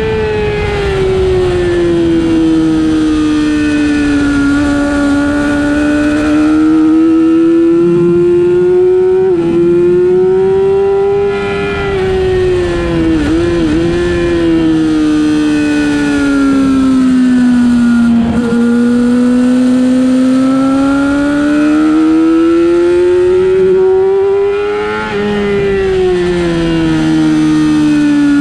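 Superbike engine at race pace, its pitch climbing and falling with the throttle and dropping sharply at gear changes about 9, 18 and 25 seconds in, with wind rush under it.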